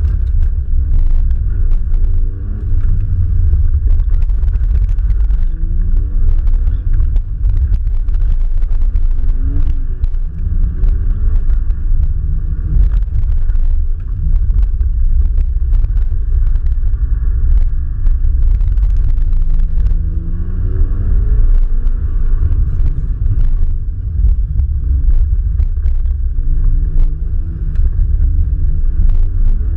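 Car engine heard onboard during a timed run, revving up and falling back again and again as the driver accelerates and lifts between corners. The sound is muffled and rumbly because it was recorded through a sealed camera housing.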